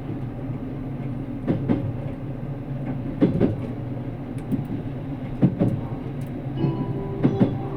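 Cabin running noise of a JR Kyushu 787 series express train: a steady rumble, with pairs of wheel clicks over rail joints about every two seconds. A steady tone comes in near the end.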